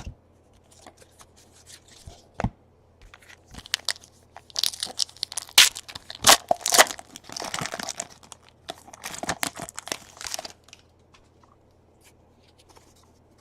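Wrapper of a pack of baseball trading cards being torn open and crinkled, with crackling rustles and small clicks, busiest in the middle.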